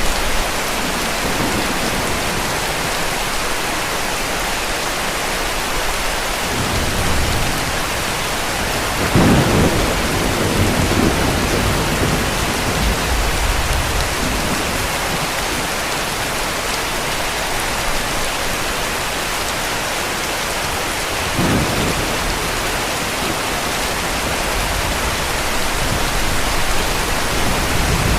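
Heavy rain falling steadily, with distant thunder rumbling through it. The strongest peal comes about nine seconds in and rolls for a couple of seconds, and a shorter one follows about twenty-one seconds in.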